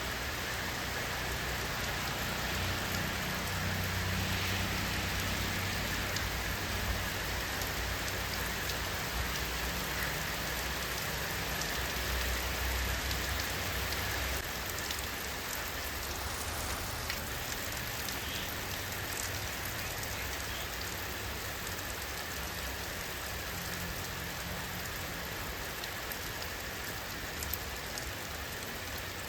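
Steady rain falling, an even dense hiss with scattered single drops ticking, over a low rumble that is a little stronger in the first half.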